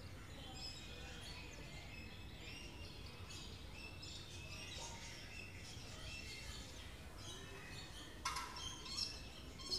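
Faint bird chirps, many short calls scattered throughout, over a low steady background noise, with a few louder short sounds near the end.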